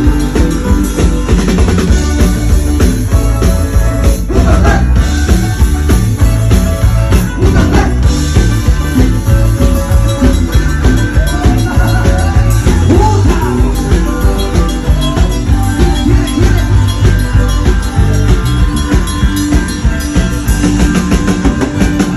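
Band playing loud music with a drum kit and a steady beat, with a voice singing in places, during a sound check.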